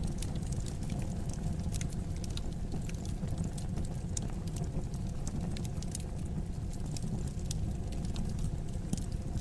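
Wood fire in a fireplace crackling, with many small sharp pops and snaps over a steady low rumble of the flames.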